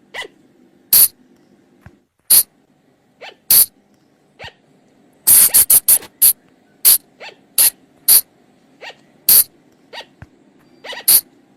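Sunda colugo (flying lemur) calls: short, sharp, high-pitched cries repeated at irregular intervals about one or two a second, with a quick run of several together about five seconds in. This is a colugo lure call.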